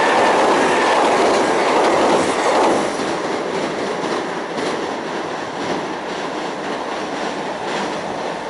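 Kintetsu Minami Osaka Line electric train passing close by on a railway bridge, its wheels clattering over the rails. It is loud for the first few seconds, then fades steadily from about three seconds in as the train moves away.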